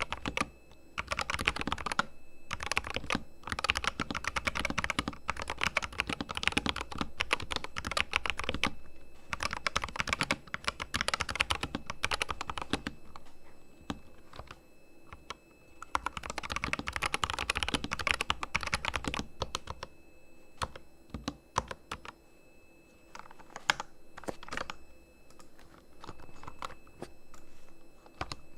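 Corsair K100 RGB mechanical keyboard with fully lubed switches being typed on: fast runs of keystrokes broken by short pauses. In the latter part the typing thins to slower, more separate key presses.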